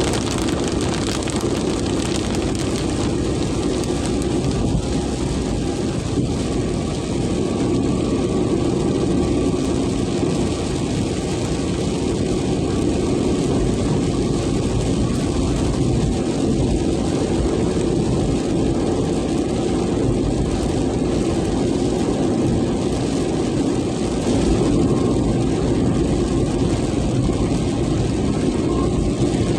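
Very heavy rain in strong wind: a steady, dense rush of noise with a low drone underneath.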